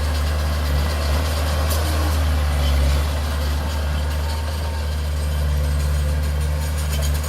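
Heavy-equipment diesel engine running steadily with a low, even drone.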